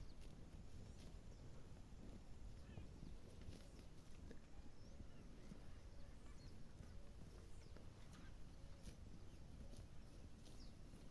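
Faint farmyard sound: a steady low rumble with scattered short chirps and a few light knocks.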